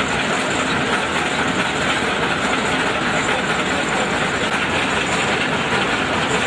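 Combine harvester running, a steady, loud mechanical noise from its engine and working machinery.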